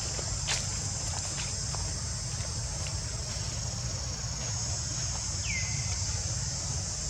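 Steady, high-pitched chorus of insects over a low rumble, with a few light clicks and one short falling chirp about five and a half seconds in.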